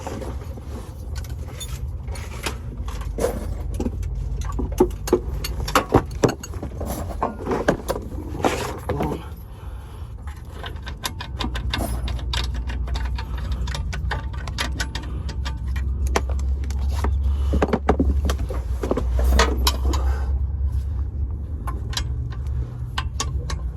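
Irregular metallic clinks and knocks of hand tools and loose hardware on metal, as tools work on the underside of a transmission. A steady low rumble runs beneath and grows stronger about halfway through.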